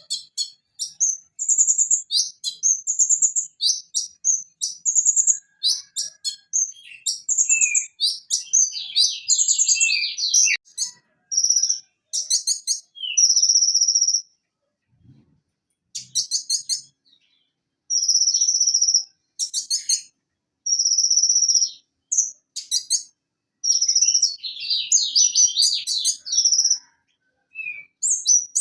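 Van Hasselt's sunbird (konin, Leptocoma sperata) singing: rapid, high-pitched chirps and trills in bursts of a second or two, separated by short pauses.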